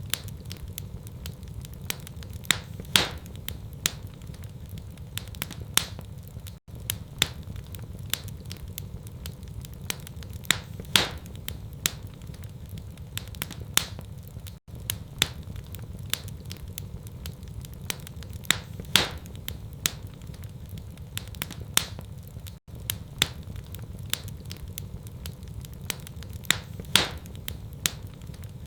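Wood fire in a fireplace crackling and popping over a steady low rumble, with a few louder sharp pops. The same crackle pattern repeats about every eight seconds.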